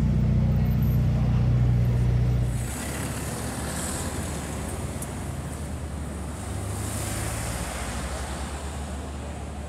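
Ferrari SF90 Stradale's twin-turbo V8 idling steadily while parked, with street traffic. The sound drops in level and changes character about two and a half seconds in.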